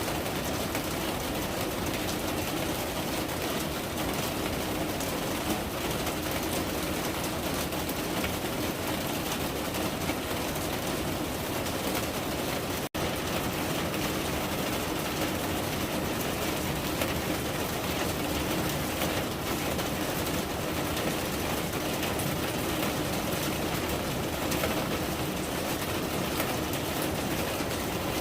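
Steady rain falling, a dense, even patter of drops that holds throughout and cuts out for an instant about halfway through.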